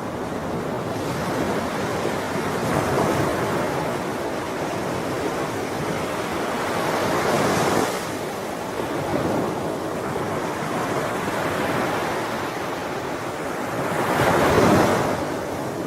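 Sea waves washing onto a shore in a continuous rush, swelling and falling back every few seconds, with the biggest surge near the end.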